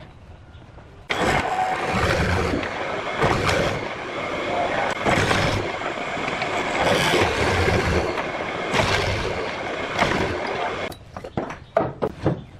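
A woodworking power tool cutting wood, starting abruptly about a second in and working in repeated passes that swell and ease about every two seconds, then stopping, followed by several sharp knocks of wood near the end.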